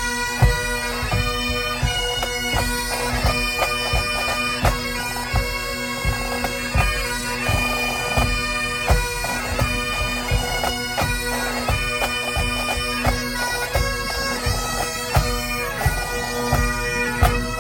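Bagpipes playing a tune over their steady drone, with drums beating.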